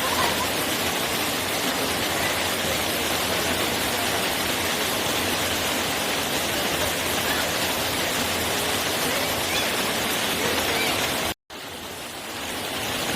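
Steady rush of flowing mountain-stream water. About eleven seconds in it cuts out for a moment, then comes back quieter and swells again.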